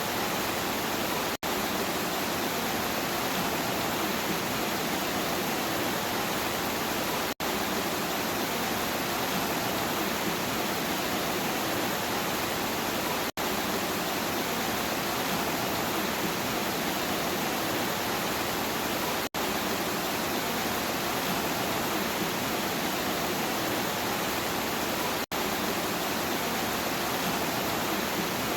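Steady, even rain noise with no distinct drops or thunder, broken by a very brief dropout about every six seconds where a short recording loops.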